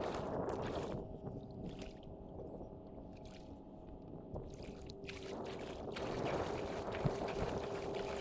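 Kayak moving across water, with a steady motor hum that grows stronger about five seconds in.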